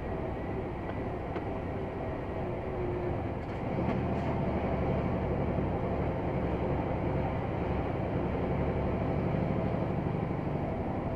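Scania XT G500 truck's diesel engine running steadily while the loaded 8x8 truck drives. About four seconds in it gets louder, with a heavier low rumble.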